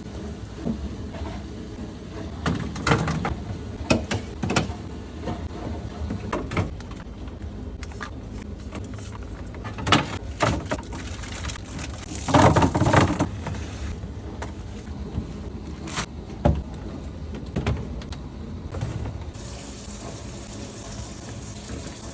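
Irregular knocks and clatter of containers, shelves and drawers being handled while a fridge is emptied and cleaned, over a steady low hum. The loudest run of clattering comes about halfway through.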